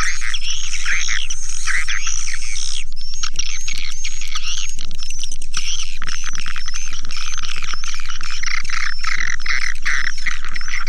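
Swiftlet lure call (suara panggil walet) of edible-nest swiftlets: dense, unbroken chattering and twittering of many birds at once, of the kind played from a swiftlet house to draw the birds in. A steady low hum runs underneath.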